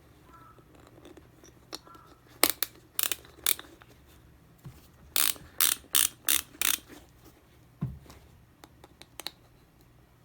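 Twist-dial shoe lacing ratchet (a TGF dial) being turned, clicking in two short runs of sharp clicks with a few fainter ticks after.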